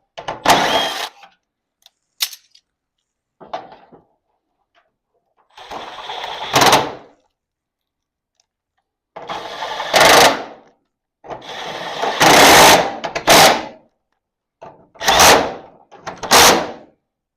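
Cordless power driver running in about seven short bursts, each up to about two seconds long, with pauses between them, as it works the screws of a cracked garage door hinge.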